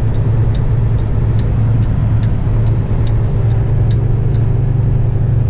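Semi truck's engine running steadily, heard inside the cab, with the turn signal ticking a little over twice a second while merging.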